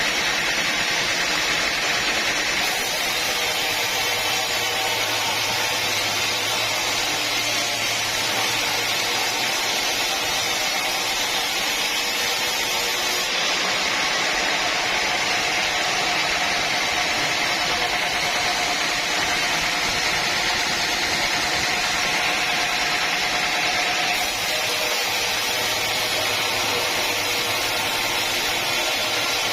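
Sawmill saw running steadily through a teak log, a continuous loud cutting noise with a faint steady whine underneath.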